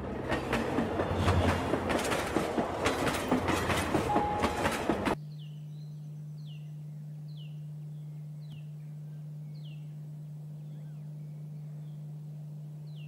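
A train runs past on the rails, loud, with quick irregular clacks of the wheels for about five seconds, then cuts off suddenly. After the cut there is a steady low hum, and a bird gives a short falling call over and over, about once every 0.7 s.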